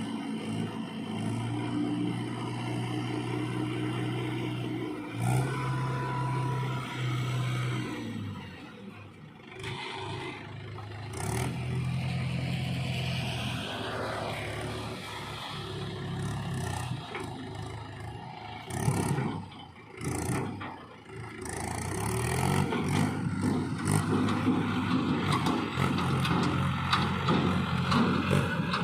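JCB 3DX backhoe loader's diesel engine working, its pitch rising and falling several times as it takes up and drops load, with scraping and clattering from the bucket.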